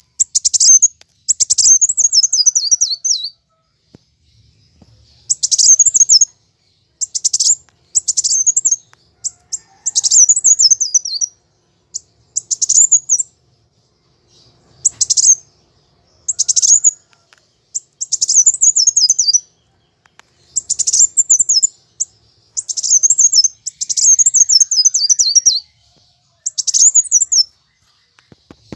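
Kolibri wulung sunbird singing in its agitated fighting mode: bursts of high, rapid twittering, some ending in falling trills, repeated every one to two seconds with short pauses between.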